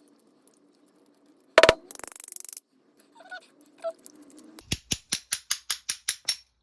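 Small metal hand tools working on a lawnmower carburetor while its main jet is being removed. There is a sharp metallic knock and a brief rapid rattle, then a run of about a dozen evenly spaced clicks, about seven a second.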